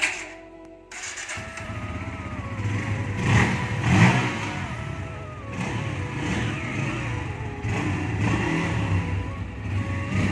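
Bajaj Pulsar N160's single-cylinder engine starting about a second in, then running and revving as the bike pulls away, with background music playing over it.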